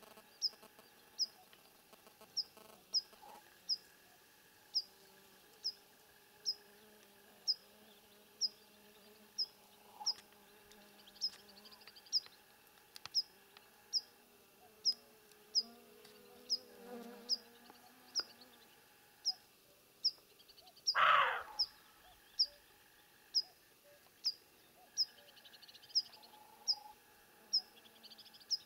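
A small bird repeating a single short, high chirp about once a second, with one louder, lower call about two-thirds of the way through.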